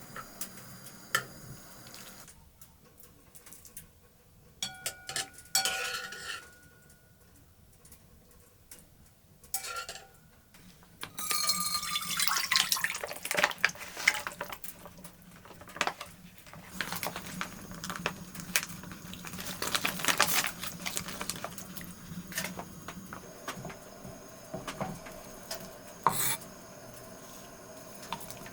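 Dishes and metal utensils clinking and scraping, with one ringing clink about five seconds in and a stretch of water sloshing near the middle.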